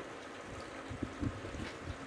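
Steady rain noise, with irregular low rumbling bumps from about a second in.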